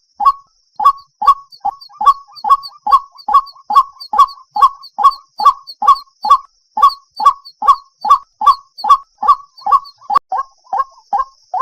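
White-breasted waterhen calling: a long run of short, loud, evenly repeated notes, about two and a half a second, a little quicker near the end.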